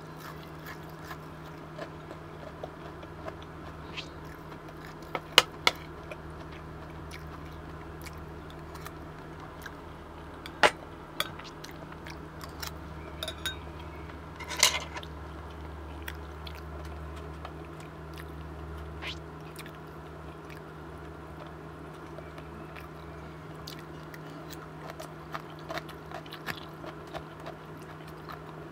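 Close-miked chewing of a mouthful of fried chicken katsu, with scattered small wet mouth clicks and a few sharper smacks, over a steady low hum.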